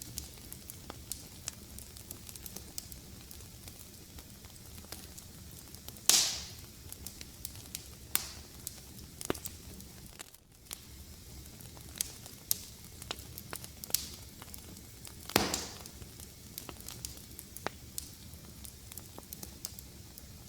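Fireplace fire crackling steadily, with many small snaps and two louder pops that hiss briefly, about six seconds in and again about fifteen seconds in.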